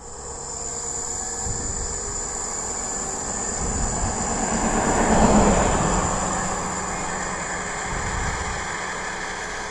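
A road vehicle passing by: its sound swells to a peak about five seconds in, then fades away.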